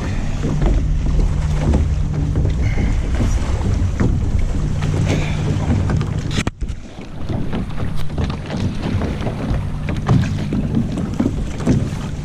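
Wind buffeting the microphone aboard a small sailboat under way, a loud, steady low rumble over the sound of water and small knocks of the boat's gear. The rumble cuts out for an instant about six and a half seconds in.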